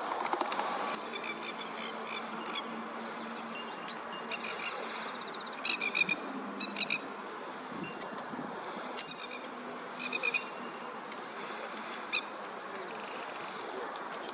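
Plovers (masked lapwings) giving quick bursts of sharp, rattling calls several times over, the alarm calls they use when mobbing a raptor such as an osprey. Steady background noise runs beneath them.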